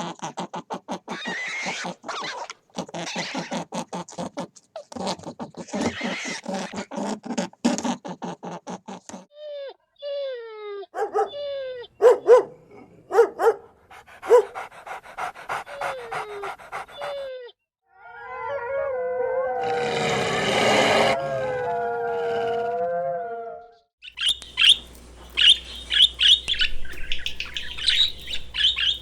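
A run of different animal calls one after another: first a long rapid pulsing rasp, then a string of short falling whines, then one long wavering howl-like call, and near the end shrill bird squawks and chirps.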